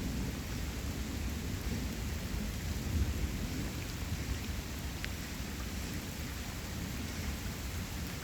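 Steady rain falling during a thunderstorm, with thunder rumbling low underneath and swelling about three seconds in; now and then a single drop ticks close by.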